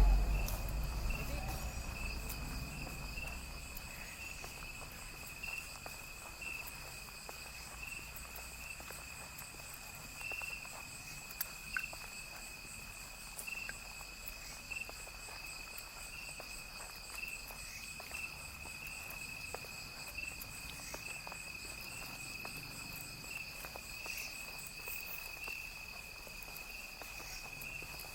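Jungle insects calling: a steady high trill that swells in regular pulses a little more than once a second, with fainter, higher insect buzzing above it and scattered faint ticks. A low rumble fades away over the first few seconds.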